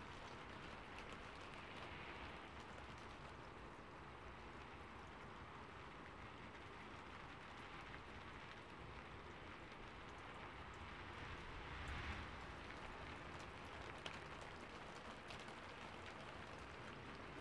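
Soft, steady rain ambience, an even hiss of falling rain that swells slightly about twelve seconds in, with a few faint clicks in the second half.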